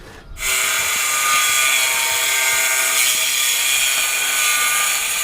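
A power tool's motor starts suddenly about half a second in and runs steadily at full speed.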